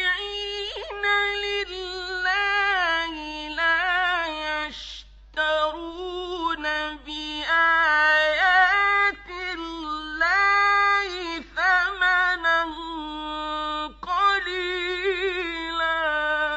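Male Quran reciter chanting in the ornate mujawwad style: a high voice in long held, melismatic phrases with wavering ornaments, broken by short breaths.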